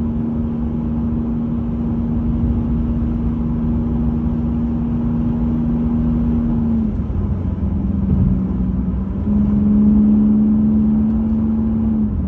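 The 2.8-litre V6 of a 1989 Chevy Celebrity drones steadily at highway speed under road noise, heard from inside the car. Its pitch dips about seven seconds in, rises again around nine seconds, and falls once more near the end. The owner thinks the exhaust needs a muffler shop to quiet it down a little.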